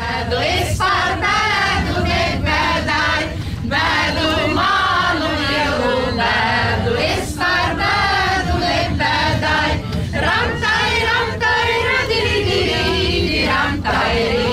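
A group of people singing a song together in chorus, over a steady low rumble.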